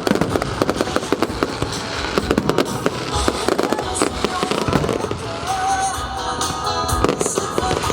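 Fireworks bursting in a dense, continuous barrage of bangs and crackles, with show music playing underneath.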